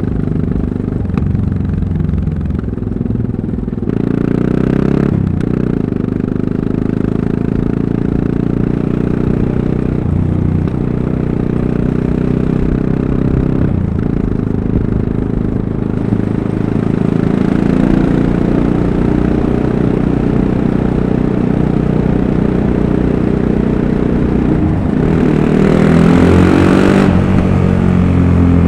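Yamaha MT-03 660 single-cylinder motorcycle engine running while riding. Its pitch changes every few seconds with throttle and gear changes. A louder burst of throttle comes near the end.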